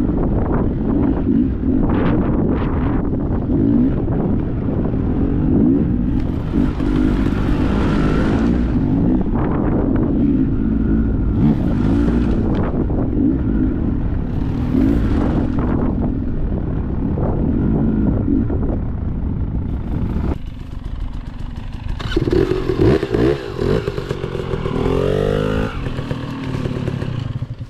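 Dirt bike engine running under changing throttle, its pitch rising and falling, with several short rushing bursts of noise over it. About twenty seconds in it drops back, then revs up again with a rising pitch near the end.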